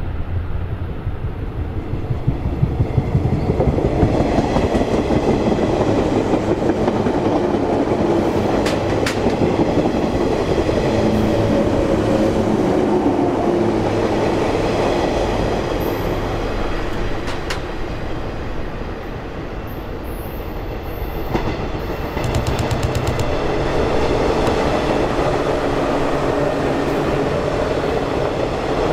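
A train running by on the rails: a steady rumble of wheels on track, with a few sharp clicks. It dips briefly about two-thirds through, then rises again.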